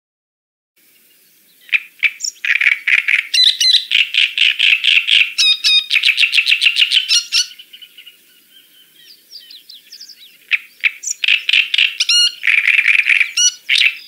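A songbird singing: fast, varied song of rapid trills and quickly repeated notes, starting about two seconds in, dropping to softer notes in the middle, then a second loud bout of song near the end.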